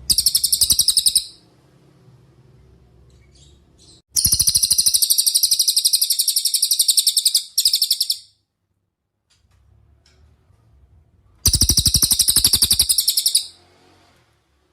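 Cililin bird singing a very fast, high-pitched rattling trill in three bouts, the middle one the longest at about four seconds.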